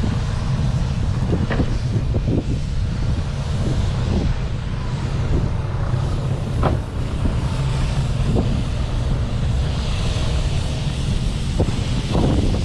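Steady low rumble, like an engine running or wind on the microphone, with scattered light knocks and clicks.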